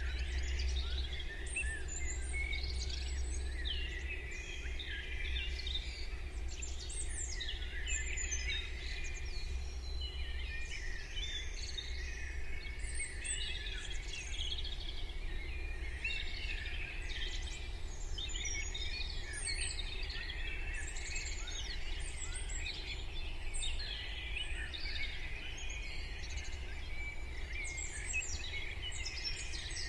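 Morning chorus of many songbirds: overlapping quick chirps and song phrases, dense and continuous, over a steady low rumble.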